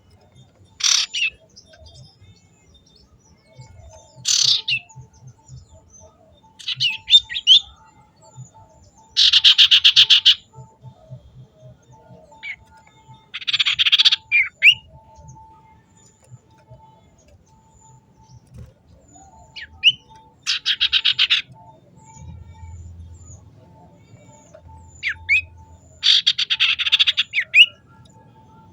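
A small songbird singing in separate bursts: short chirps and whistles, and about four rapid trills of a second or so each, the fast stuttering 'ngetir' style that bird keepers prize.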